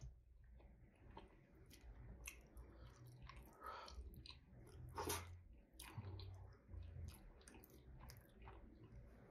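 Faint chewing with scattered small wet clicks and crackles as fingers pick through fish and seafood in soup, a slightly louder one about five seconds in.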